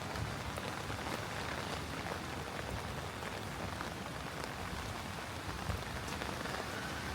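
Steady rain falling on hard surfaces, an even hiss with many small drop taps scattered through it.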